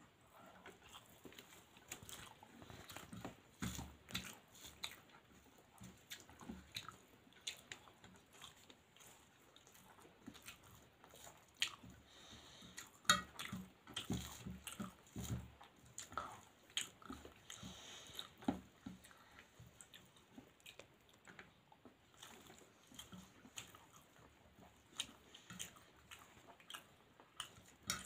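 Close-up eating sounds of rice and fried vegetables being chewed: soft, irregular mouth smacks and clicks, several a second at times.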